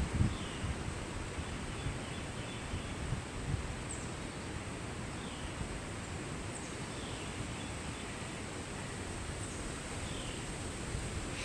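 Wind blowing through trees, a steady rustling hiss, with low buffeting on the microphone at the start. Faint little birds chirp in the background, a short falling note every couple of seconds.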